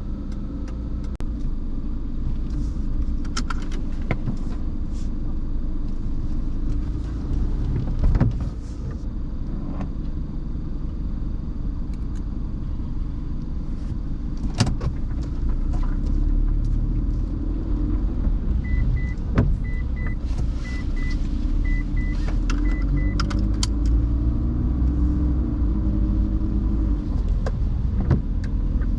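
Car driving on a rain-wet road, heard from inside the cabin: a steady low road and engine rumble with scattered sharp clicks. About two-thirds of the way in comes a short run of about six quick high beeps.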